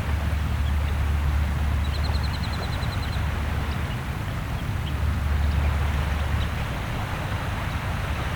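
Steady wash of small waves with a low rumble underneath, and a bird giving a quick trill of about ten short high notes about two seconds in.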